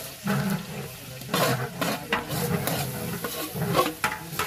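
Sliced onions and green chillies sizzling in hot oil in a large aluminium cooking pot as a long-handled metal ladle stirs them, scraping and clanking against the pot several times. This is the first frying stage of a bhuna khichuri.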